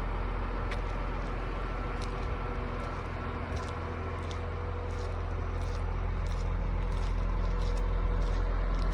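Scania diesel engine running steadily, slowly getting louder through the second half, with a few faint ticks over the hum.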